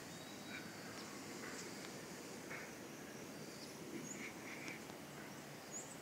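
Birds calling in the wild: short, scattered chirps and calls about a second apart, some lower and some high-pitched, over a faint steady background.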